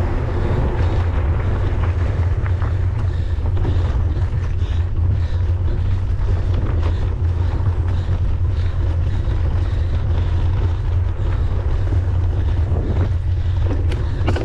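Wind buffeting the microphone as a mountain bike is ridden along the trail, a steady low rumble with small scattered knocks and rattles.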